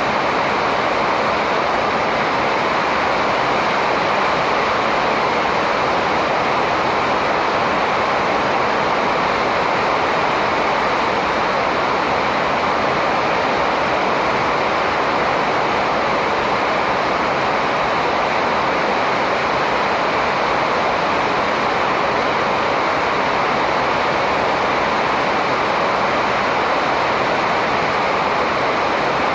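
Steady, even rushing noise, like running water, with no birdsong standing out.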